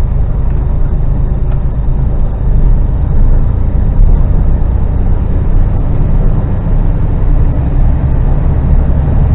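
Articulated HGV lorry driving at speed, heard from inside the cab: a steady, loud low rumble of engine and road noise, rising slightly about two and a half seconds in.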